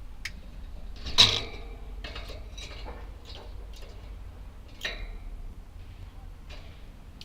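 Budgerigars giving short, sharp chirps and calls, one every second or so, the loudest about a second in.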